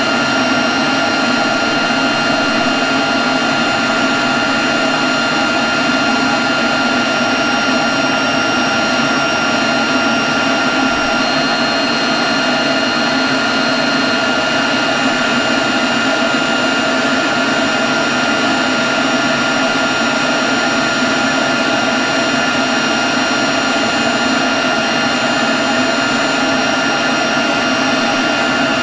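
Leaf blower running steadily at constant speed: a loud rush of air with a steady high whine over it that holds unchanged throughout.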